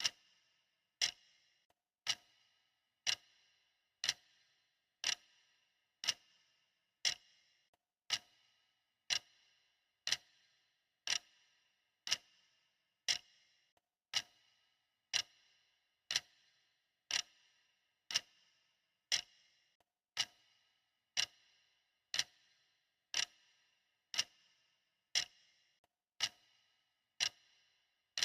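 Clock ticking steadily, a crisp tick about once a second.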